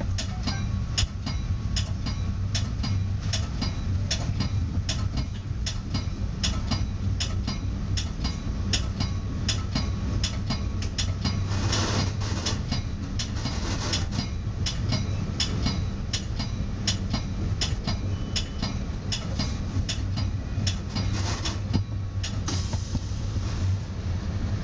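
Metra commuter train riding along the rails, heard from inside its cab car: a steady low rumble with a rapid, even ticking at about three a second. Two short rushes of hiss come about halfway and near the end.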